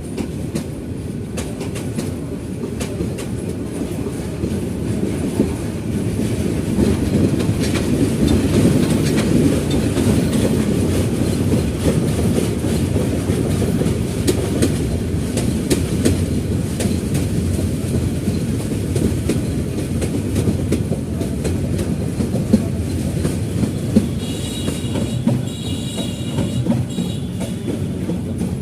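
A moving train running along the track: a steady low rumble with the wheels clicking over rail joints. Near the end a high-pitched squeal sounds for a few seconds.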